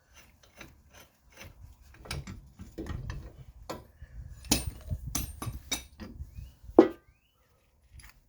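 Ratchet and socket turning the screw of a ball joint press, with irregular clicks, knocks and scraping and a sharp loud click about seven seconds in, as the press strains against an end link shaft seized in a suspension bushing.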